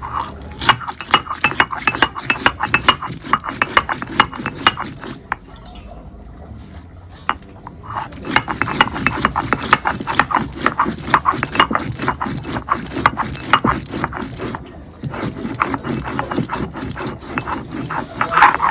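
A metal spoon or spatula stirring in a cooking pot, scraping and knocking against the pot in quick repeated strokes. The strokes stop for a few seconds near the middle, then carry on.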